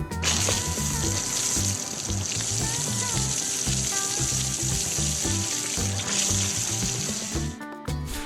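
Cartoon welding sound effect: a steady sizzling hiss of sparks that starts just after the beginning and cuts off about a second before the end, over background music with a bouncy bass line.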